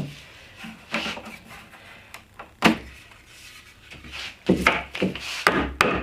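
Pine pieces of a coffee table being handled, knocking and rubbing together, with a sharp knock about two and a half seconds in and a quick run of knocks near the end.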